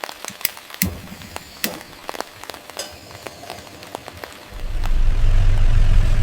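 Rain falling, with many sharp drip and crackle sounds. About four and a half seconds in, a loud low rumble comes in and holds.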